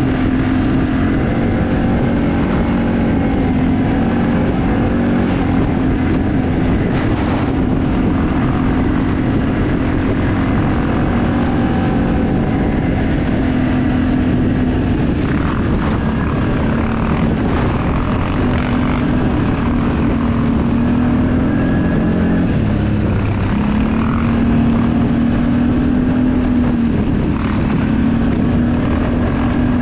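Off-road vehicle engine running steadily under way. Its pitch drifts slightly up and down with the throttle.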